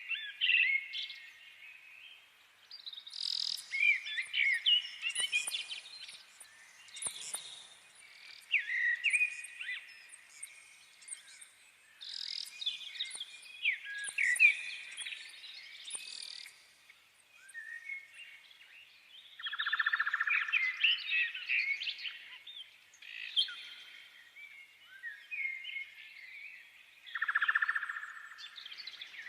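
Birds chirping and singing: clusters of quick, high chirps and trills, with short pauses between.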